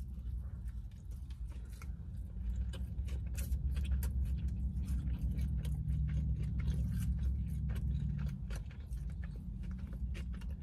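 A person biting into and chewing a chicken salad sandwich up close, with many small wet mouth clicks, over a steady low hum.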